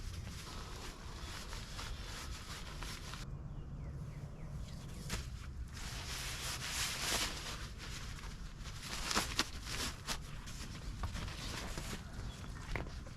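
Irregular footsteps and rustling while a camp is being packed up, with a few sharper knocks and crunches scattered through.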